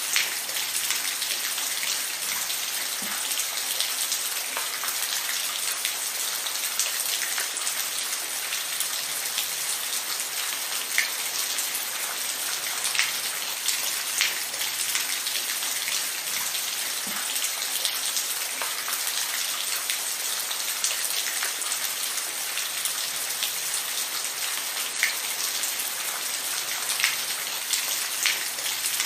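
Steady rain falling, an even hiss with scattered louder individual drop hits.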